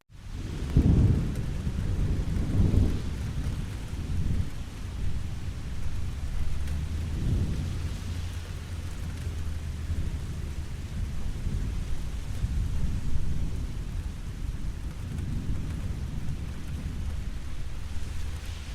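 Steady rain falling, with low rolls of thunder rumbling through it, the strongest about a second in and several softer ones later. The sound drops out for a moment at the very start.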